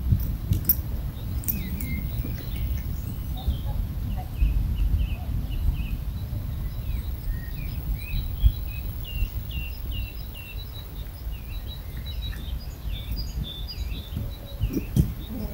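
Small birds chirping and singing, the calls thickest in the second half, over a steady low rumble with a few soft thumps.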